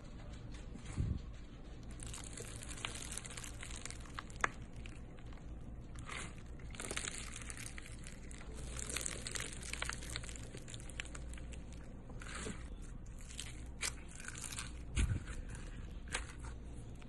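Crunchy s'mores slime being squeezed and pressed, giving a steady run of crackling, crunching sounds with a few soft low thumps.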